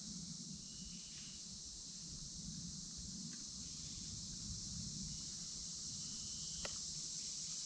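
Evening insect chorus: a steady, unbroken high-pitched drone of crickets or similar insects, with a faint low rumble beneath and a single faint click about two-thirds of the way through.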